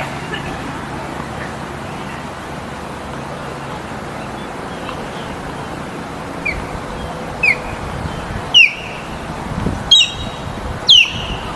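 A bird calling: short, sharp, downward-sweeping squawks, about one a second, starting around two-thirds of the way in over a steady outdoor hiss.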